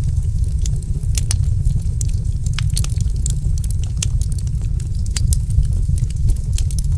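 Wood fire in a fireplace crackling: many sharp, irregular pops of differing loudness over a steady low rumble.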